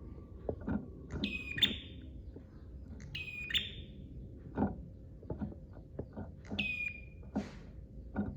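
Prinia (prenjak) calling: three bouts of sharp, high, rapidly repeated chirps a couple of seconds apart, with scattered faint clicks between them.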